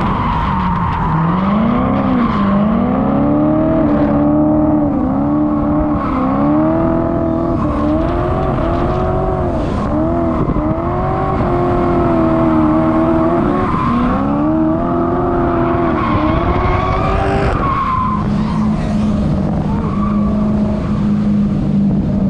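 Drift car engine revving hard, its pitch swinging up and down again and again as the driver works the throttle through a drift, with tyre squeal and skidding underneath. For the last few seconds the engine settles into a steadier drone.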